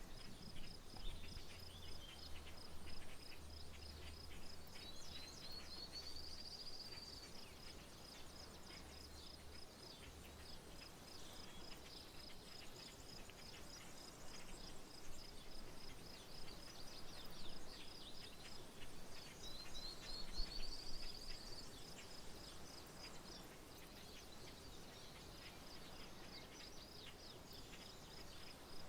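Birds singing and calling in open country: a high, even chirp repeats about three times a second, a rising song phrase is heard twice, and short chirps are scattered between them. A faint low hum sounds during roughly the first ten seconds.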